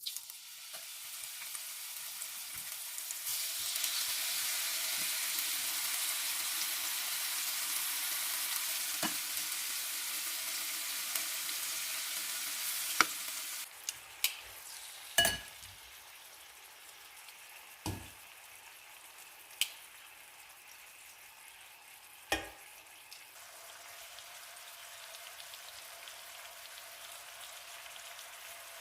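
A steady sizzling hiss that drops suddenly to a quieter level about fourteen seconds in. Several sharp knocks are scattered through the middle of it.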